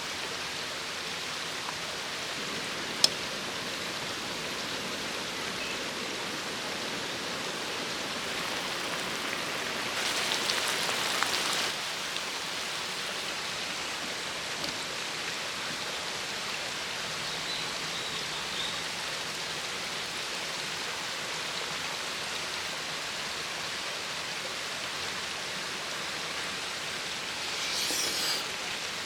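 Steady rushing of a stream flowing over rocks. A sharp click comes about three seconds in, and brief louder rustling comes around ten seconds in and again near the end.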